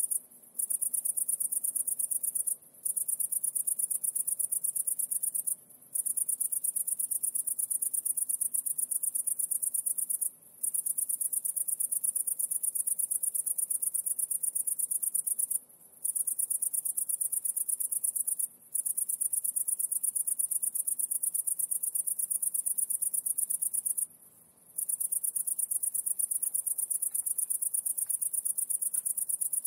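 High-pitched insect trilling, a fast even pulsing broken by short pauses about eight times.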